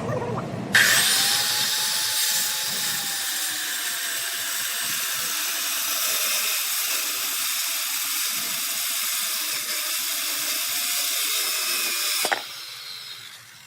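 Electric power tool running on wood: a motor whine with a loud high hiss starts suddenly about a second in and holds for about eleven seconds. It is then switched off, and its pitch falls away as the motor winds down.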